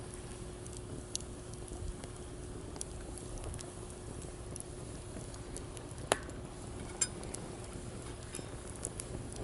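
Wood campfire crackling with scattered small pops and two sharper pops about six and seven seconds in, over a steady hiss.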